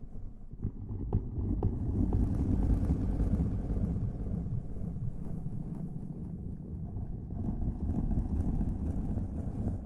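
ASMR rubbing and rustling right against the microphone, a low muffled rumble with a few small clicks between about half a second and two seconds in.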